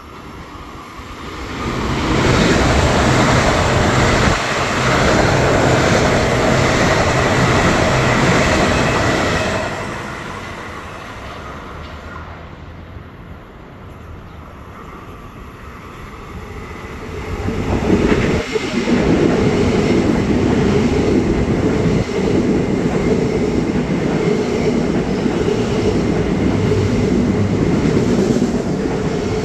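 Long Island Rail Road trains passing at speed, steel wheels clattering on the rails. One loud passage lasts about eight seconds, then eases off. A second rises about eighteen seconds in and keeps going.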